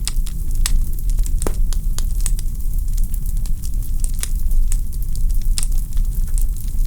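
Wood fire burning in a fireplace, the logs crackling and popping: a steady low rumble of flame with sharp irregular pops several times a second.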